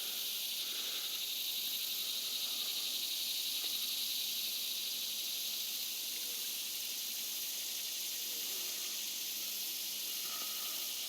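A steady, high insect chorus buzzing without a break, with no water or engine sounds under it.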